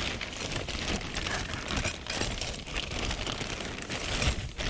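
Rummaging through a bag of scrap: plastic crinkling and rustling with many small items clicking and knocking together.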